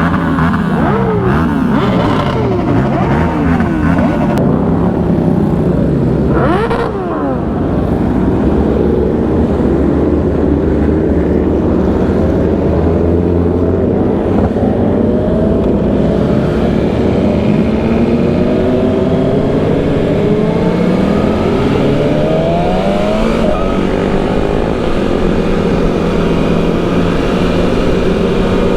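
Sport-bike engines of a riding pack heard from among the motorcycles, several at once, their pitch climbing and dropping with throttle and gear changes.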